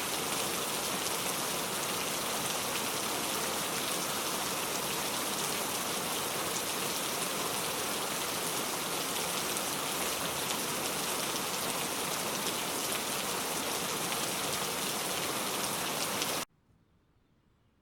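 Steady, heavy rain falling, a dense even patter of drops. It stops abruptly about sixteen seconds in, leaving near silence.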